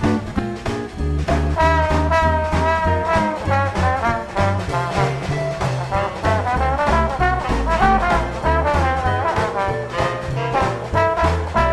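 Live swing band playing: a brass and saxophone horn section carries the melody over upright bass, guitar and drums.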